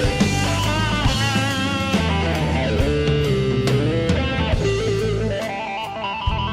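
Blues band instrumental: electric guitar soloing with bent, gliding notes over bass and drums.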